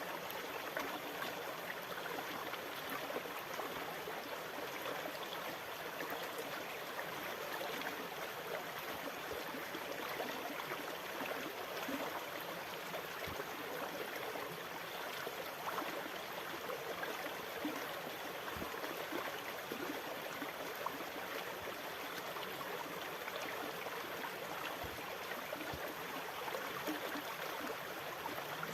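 Moving water, a steady rushing and gurgling with no distinct surges of waves.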